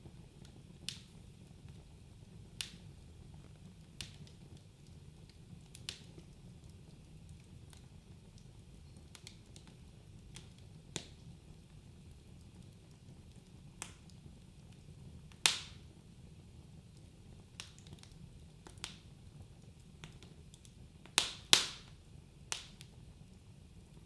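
Wood fire crackling in a fireplace: sharp, irregular pops and snaps every second or two over a faint low rumble of the flames, with the loudest pops about fifteen seconds in and a close pair about twenty-one seconds in.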